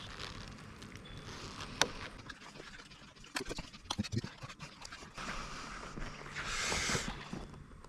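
Handling noise from work on an opened EV high-voltage battery pack: scattered light clicks, taps and knocks of tools and plastic covers, with a sharp click about two seconds in and a cluster of knocks a little later. Near the end there is a longer stretch of hissing, rustling noise.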